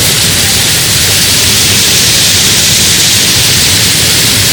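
Waterfall, close by: a loud, steady rush of falling water.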